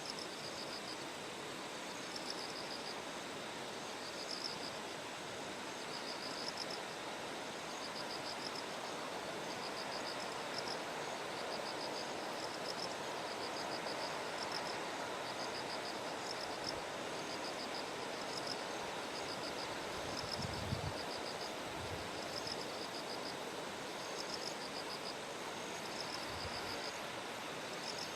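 Bell crickets (suzumushi) chirping in short pulsed trills that repeat over the steady rush of a stream. A few low thumps come about two-thirds of the way through.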